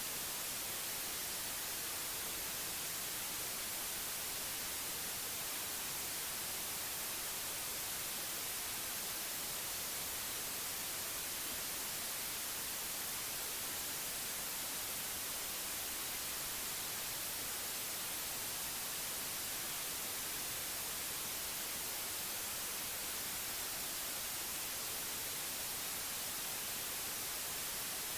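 Steady white noise: an even, unchanging hiss across all pitches.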